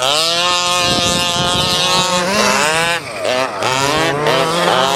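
Large-scale RC monster truck's Zenoah 27cc two-stroke petrol engine revving hard. It climbs quickly to full throttle, holds there for about two seconds, drops off, then rises and falls in several quick throttle blips.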